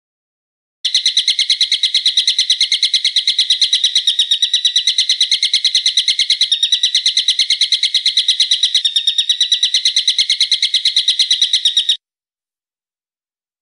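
A bird's call: a fast, even series of sharp high notes, about eight a second, kept up without a break for about eleven seconds and then cut off abruptly.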